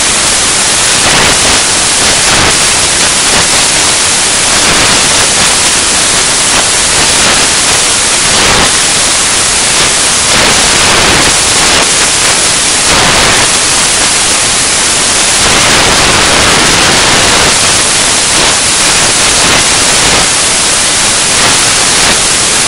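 Loud, steady hiss like static or white noise, starting abruptly and holding even throughout.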